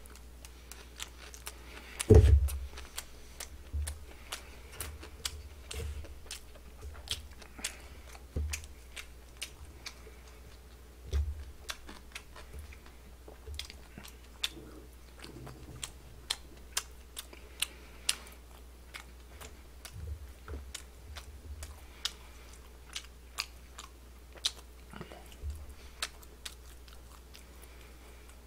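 Close-up eating sounds: chewing with many small sharp crunches and clicks, and a loud thump about two seconds in.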